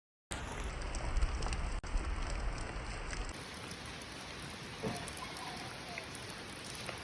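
Steady rain falling, an even hiss of drops, with a low rumble underneath during the first three seconds.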